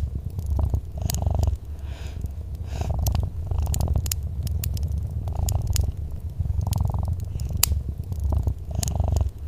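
Domestic cat purring close up: a steady low rumble that swells and eases with each breath. Scattered sharp crackles of a wood fire sound over it.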